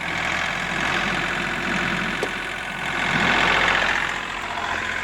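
John Deere 3038E compact tractor's three-cylinder diesel engine running steadily, growing louder for about a second a little past halfway.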